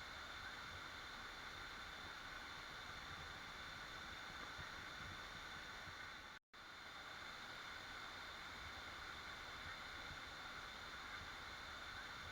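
Steady rushing of a waterfall, an even wash of falling water. It cuts out completely for an instant about six and a half seconds in.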